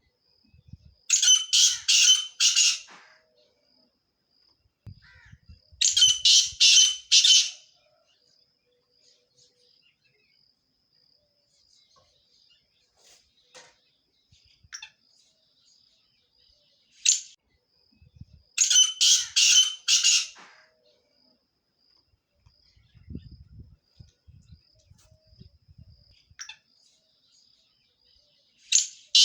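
Grey partridge calling: groups of about four harsh, rasping 'kirrick' calls in quick succession, repeated four times, with a single call between the third and fourth group.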